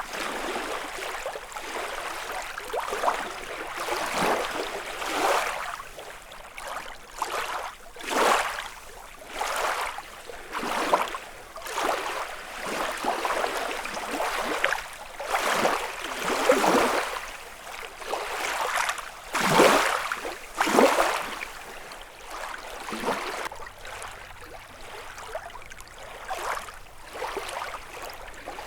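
Small lake waves lapping and splashing against the shore, in irregular washes every second or two, with two louder splashes about two-thirds of the way through.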